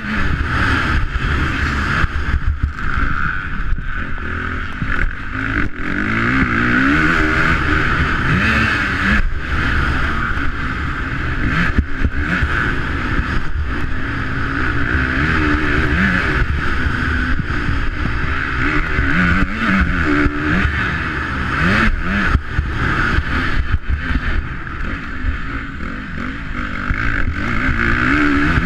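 Motocross bike engine revving hard, its pitch rising and falling again and again as the rider accelerates and backs off around a dirt track, heard through an onboard camera with a constant rushing noise and occasional sharp knocks.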